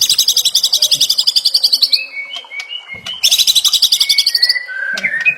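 White-rumped shama (murai batu) song in two loud, fast, high rattling trills, separated and followed by short clear whistled notes.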